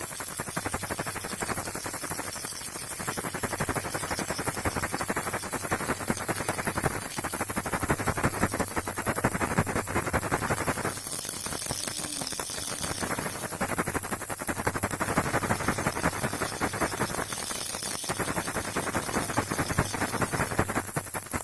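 Baby rattle shaken continuously: a dense, fast clatter of small pellets inside the toy, going on without a break.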